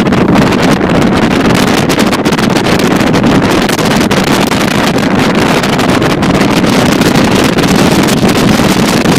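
Motorboat running steadily underway, its engine and hull noise mixed with wind buffeting the microphone.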